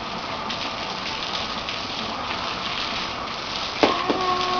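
Steady hiss of spraying water, like heavy rain drumming on a surface. A short, steady pitched sound comes in near the end.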